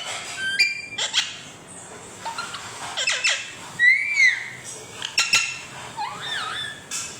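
Pet parrot calling in a string of short chirps, clicks and whistled notes, several sliding up and down in pitch.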